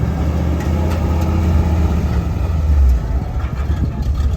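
A car's engine running loud and deep, building to its loudest just before three seconds in.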